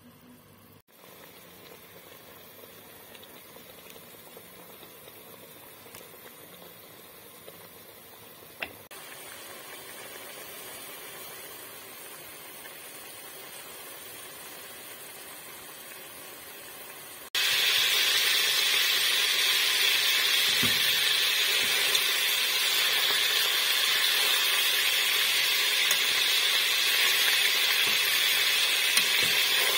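Quail frying in oil in a pressure cooker pot as they are browned: a loud, steady sizzle that starts suddenly a little past halfway, with an occasional light knock of the turning utensil. Before it, only a faint steady hiss.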